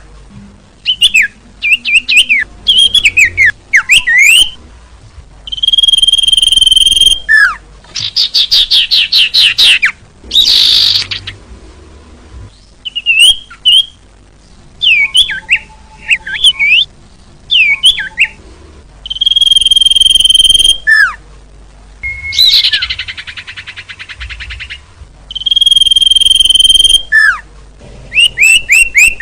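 Bird-lure recording of small songbird calls. A steady high whistled note, about a second and a half long, comes back several times between quick sliding chirps and fast rattling trills. It is a looped call played to draw the birds in close.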